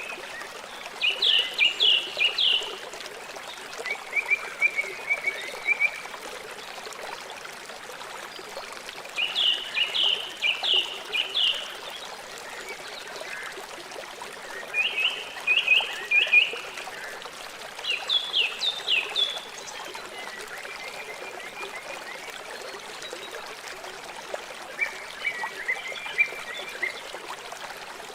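Steady rush of a flowing river, with short bursts of quick chirping calls rising above it every few seconds.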